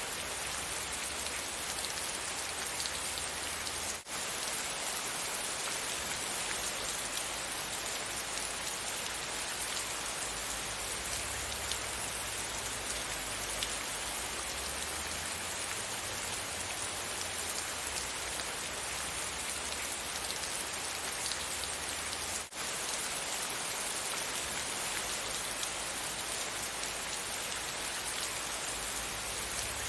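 Steady rain falling, a dense even patter of drops on surfaces, briefly cut by two very short dropouts about 4 and 22 seconds in.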